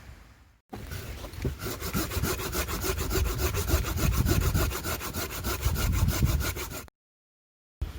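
Hand saw cutting through a piece of beach driftwood in quick, even strokes. It starts abruptly and cuts off suddenly about a second before the end.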